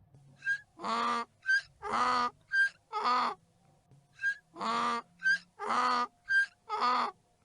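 Donkey braying "hee-haw" twice, each bray three wheezy cycles of a short high "hee" on the in-breath and a longer, lower "haw" on the out-breath.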